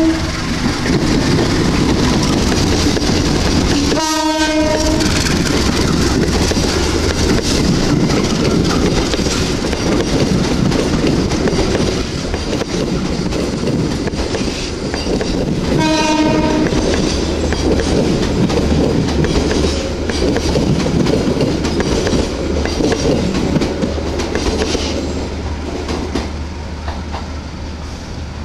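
Diesel-hauled passenger train running through the station: a steady loud rumble of engine and wheels clattering over the rail joints, with two horn blasts about a second long, one about four seconds in and another about sixteen seconds in.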